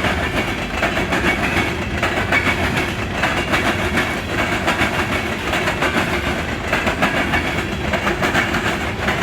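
Empty coal hopper cars of a freight train rolling past, their wheels hammering over a railroad diamond crossing in a continuous rapid clatter.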